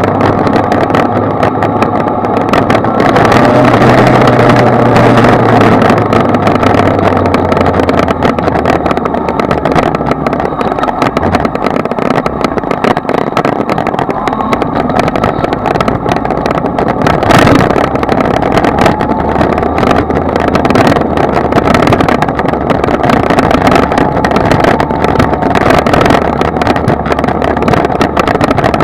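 Kawasaki Z1000 inline-four motorcycle engine running steadily under way, heard from the bike with a dense rushing noise over it. Its low engine note is stronger for the first eight seconds or so, and there is a single short sharp knock about seventeen seconds in.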